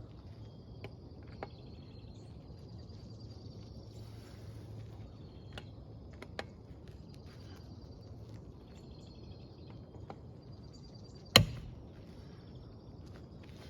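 Lug nuts being loosened with a breaker bar and socket: scattered light clicks, then one sharp metallic crack with a short ring about eleven seconds in. A steady high insect trill runs underneath.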